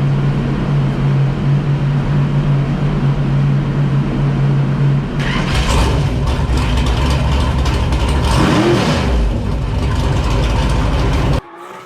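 Stroked 7.0-litre (427 ci) iron-block LS V8 running loud and steady, then revved hard from about five seconds in, the pitch rising and falling once, before the sound cuts off abruptly near the end.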